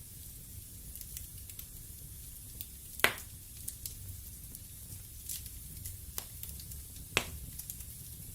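Wood fire burning in a fireplace: a steady low rumble and hiss with many small crackles, and two sharp pops from the burning logs, about three seconds in and about seven seconds in.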